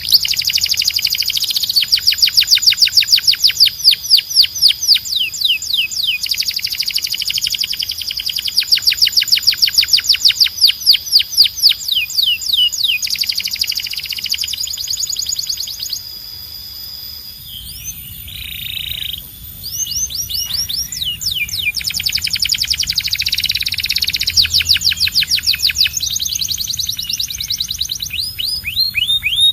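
Canary singing long, fast rolling trills of rapidly repeated sweeping notes. A brief lull comes a little past halfway before the trilling picks up again.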